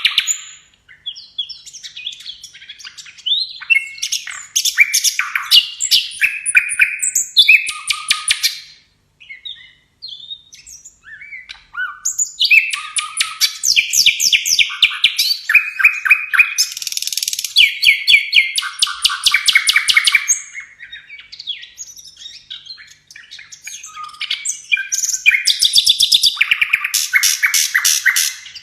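Songbird singing, loud and varied: phrases of rapid repeated notes and fast trills, broken by two quieter pauses. This is a masteran recording, bird song played to caged songbirds so that they learn it.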